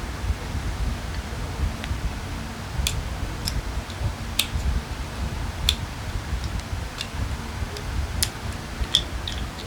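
Scattered sharp clicks and light taps, about ten of them at irregular intervals, of small carburetor parts and tools being handled during disassembly, over a steady low rumble.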